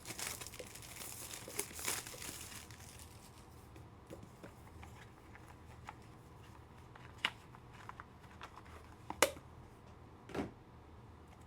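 Plastic wrapping crinkling and tearing as a sports card is unpacked during the first few seconds, then a few sharp light clicks of handled cards and plastic cases.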